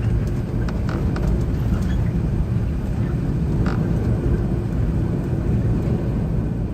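Steady low rumble of airflow and engines inside the cabin of an Airbus A380 flying through heavy turbulence, with a few short clicks.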